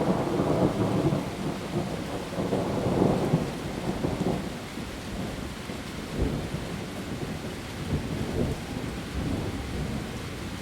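Heavy rain falling steadily on leaves, with a low rolling rumble of thunder that swells in the first few seconds and then eases off.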